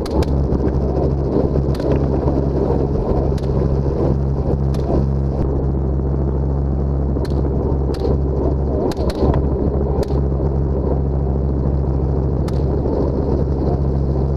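Helicopter engine and rotor drone, loud and steady, with about ten sharp cracks at irregular intervals: rifle shots fired from the helicopter at running hogs.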